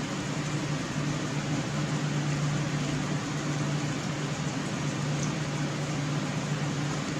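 Steady low machine hum with an even hiss, unchanging throughout, like a room fan or air-conditioning unit running.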